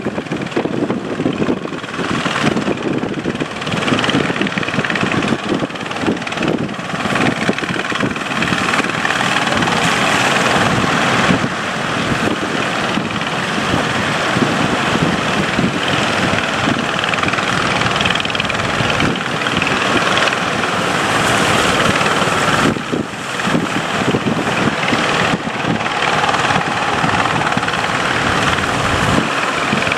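A boat's engine running steadily at sea, mixed with heavy wind buffeting the microphone and rushing water.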